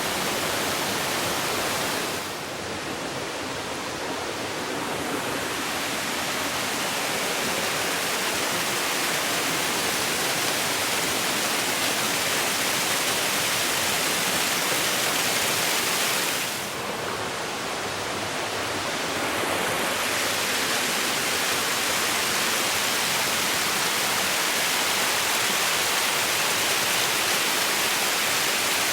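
Small mountain waterfall rushing steadily over rocks, a constant hiss of falling water that softens briefly twice, about two seconds in and about sixteen seconds in.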